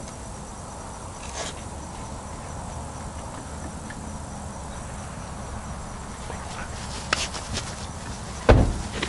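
Steady outdoor background with faint insect chirping and a few light clicks, then a single loud thump near the end.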